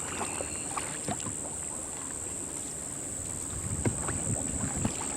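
Small boat being paddled through floodwater: paddles dipping and swishing in the water, with a few light knocks.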